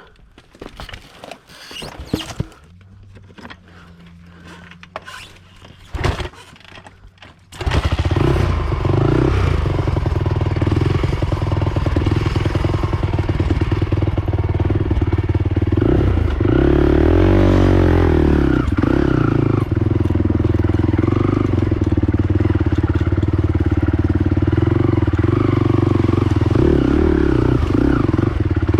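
Honda TRX450R ATV's single-cylinder four-stroke engine: a few knocks and clatter, then about seven seconds in the engine comes on suddenly and runs loud and steady, with its revs rising and falling briefly in the middle.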